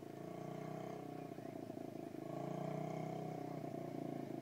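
Small 50cc motocross bike engine running steadily, getting louder about two seconds in.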